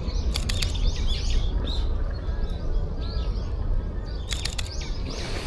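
Azure-winged magpies calling from a tree: many short, rough, repeated calls, with clusters of sharp clicks just after the start and again about four and a half seconds in.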